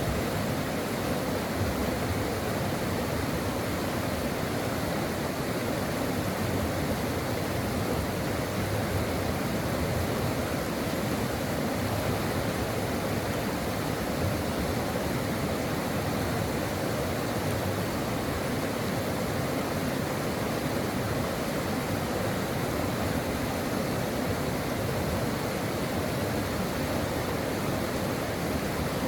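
Stream water rushing and babbling over rocks, a steady unbroken flow.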